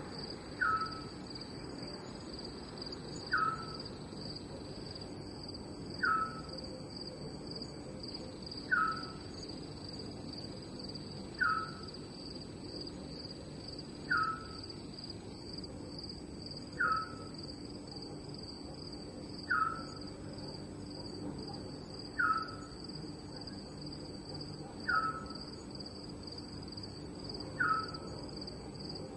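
Night ambience of crickets trilling steadily, with a short falling call that repeats about every two and a half seconds.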